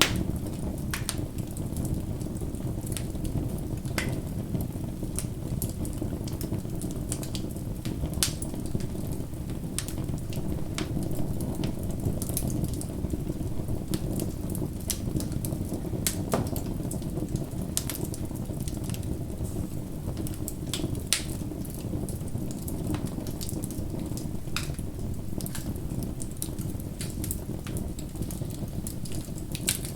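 Bonfire burning: a steady low rush of flames under irregular sharp crackles and pops from the burning wood, with a few louder snaps along the way.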